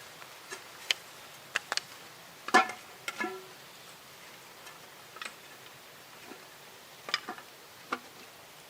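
Scattered light knocks and clicks of hard pieces being handled, about a dozen in all. The loudest is a hollow knock with a short ring about two and a half seconds in.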